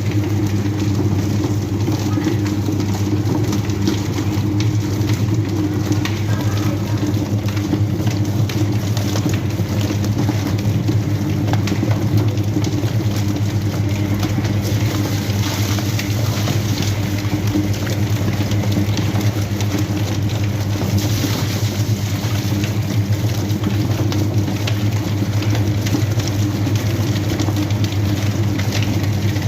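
Electric chicken-plucking machine running: a steady motor hum over a continuous rattling, hissing noise from the spinning drum.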